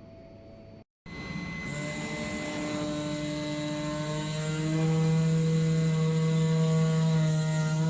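Comagrav Digi Corsa CNC flatbed cutter running: a steady machine hum with several held tones that shift pitch now and then. It starts after a brief silence about a second in and grows louder about halfway through.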